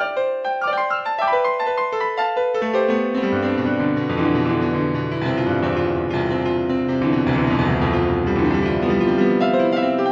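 Piano music: quick runs of notes in the upper range, with low bass notes joining in about two and a half seconds in.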